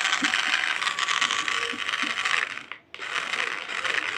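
Remote-control toy car's small electric motor and plastic gears running with a fast rattling whir. It stops briefly about three seconds in, then starts again.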